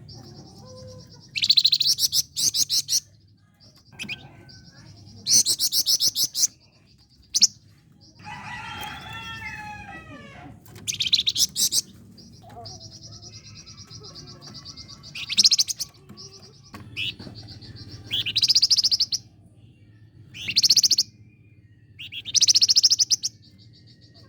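A flamboyan songbird singing: loud, rapid, high trills about a second long, repeated every two to three seconds, joined by a thin, steady high note between them. About eight seconds in there is a short run of lower, falling whistled notes.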